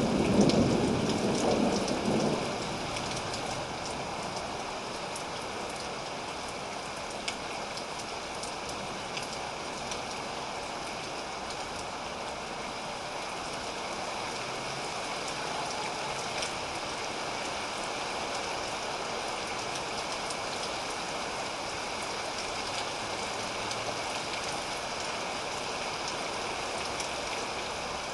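Steady rain falling, an even hiss with fine drop patter, while a roll of thunder dies away over the first two or three seconds.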